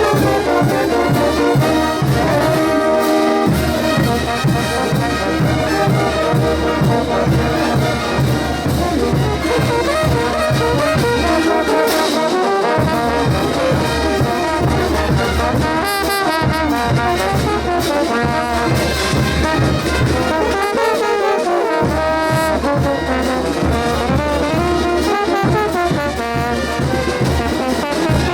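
Bolivian brass band playing ch'uta carnival music: trumpets and trombones carrying the melody over a steady drum beat.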